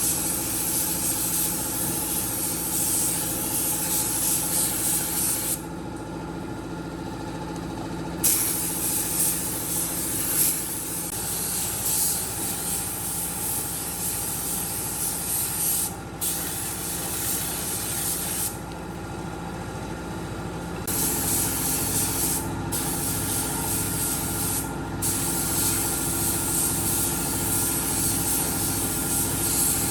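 A machine runs with a steady hum under a loud hiss of air or spray. The hiss cuts out for a couple of seconds twice and briefly a few more times. A low pulsing joins the hum in the second half.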